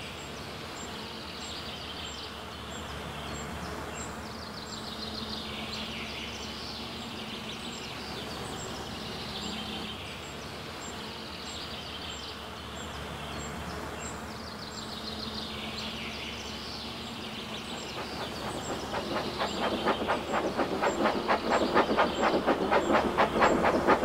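Train running on rails with a steady rumble. About three quarters of the way in, a rapid, even clickety-clack of wheels over rail joints builds and grows louder.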